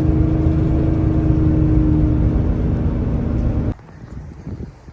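Steady engine and road noise heard inside a moving van, with a steady hum. It cuts off abruptly about three and a half seconds in, leaving only faint wind-like background noise.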